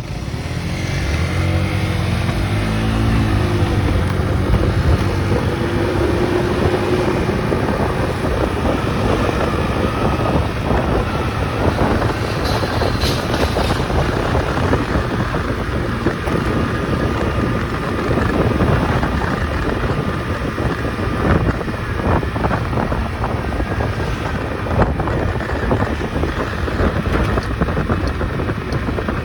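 Small motorcycle engine pulling away, its pitch rising through the first few seconds, then running steadily while riding, with heavy wind noise on the microphone.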